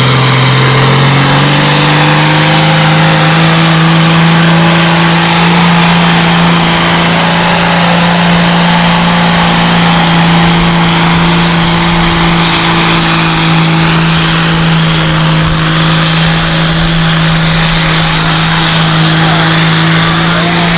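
Competition pulling tractor's engine running at high revs during a pull, loud and steady; its pitch climbs about a second in and then holds.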